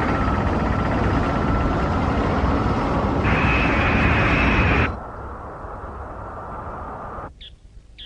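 Cartoon spaceship engine sound effect: a steady rumble that turns brighter and hissier for about a second and a half in the middle, then drops off suddenly about five seconds in and dies away near the end, when a few short chirps come in.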